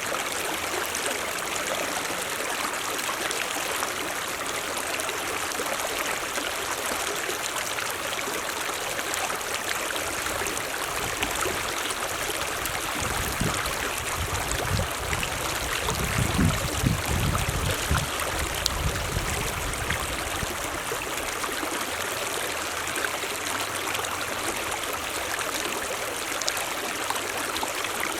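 Mountain stream running steadily over rocks, an even rushing and trickling of water. A low rumble swells for a few seconds around the middle.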